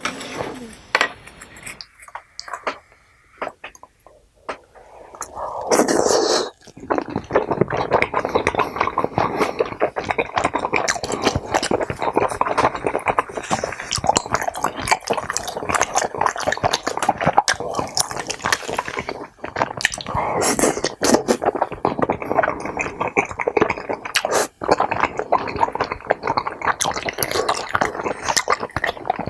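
A few clicks of utensils against dishes, then from about six seconds in, continuous wet chewing and smacking of someone eating saucy tteokbokki and kimbap, with utensils clicking now and then.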